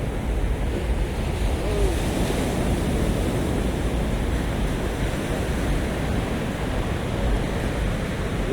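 Sea surf washing onto a beach, a steady rush of waves, with wind rumbling on the microphone.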